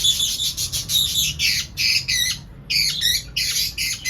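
Small pet parrot squawking, a rapid series of harsh calls, about two a second.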